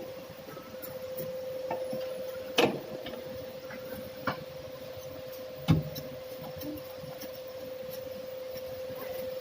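A steady machine hum on one pitch, with three sharp knocks: the loudest about two and a half seconds in, a smaller one after about four seconds, and a knock with a dull thud near six seconds.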